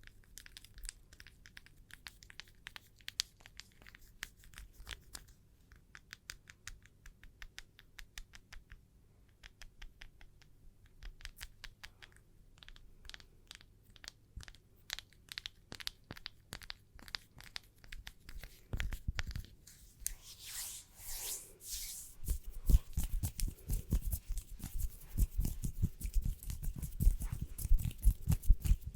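Fingernails tapping in quick, light clicks. About two-thirds of the way through, this gives way to hands rubbing with a swishing sound, then louder, denser tapping with soft thuds.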